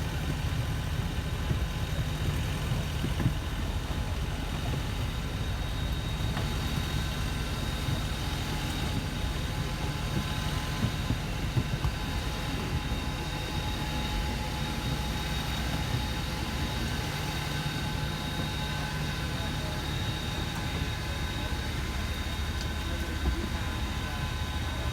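Steady engine hum, with a deep low drone and several faint high whining tones held throughout.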